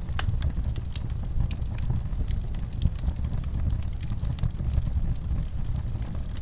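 Fire crackling: frequent, irregular sharp pops and snaps over a steady low rumble.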